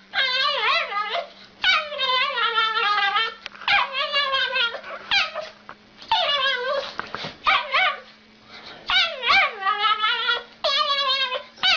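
A dog whining and yowling in a run of long, wavering calls, one after another, that rise and fall in pitch, over a steady low hum.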